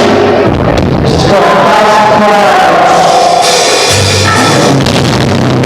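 Live rock band playing loud: a singer over electric guitar, bass and drums, with cymbals washing in about three and a half seconds in. The recording is harsh and overloaded.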